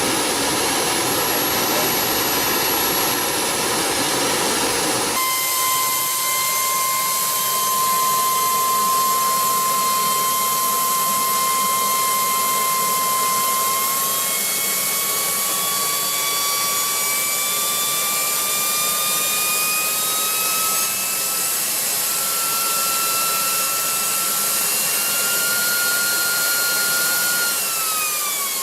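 Small jet turbine engine running. A rough roar gives way abruptly, about five seconds in, to a steady high whine that climbs slowly in pitch as the engine spools up, then drops in pitch near the end as it winds down.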